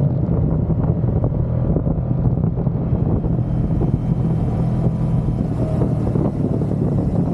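Moto Guzzi V100 motorcycle's V-twin engine running at a steady cruising pace, with gusty wind buffeting the microphone.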